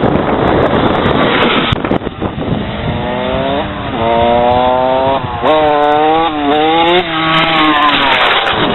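Wind buffeting the microphone, then a dirt bike engine revving. Its pitch climbs, drops and climbs again in steps, with a few quick blips of the throttle, before it fades under the wind near the end.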